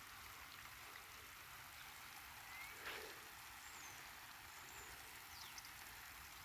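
Faint, steady trickle of irrigation water running through the garden beds.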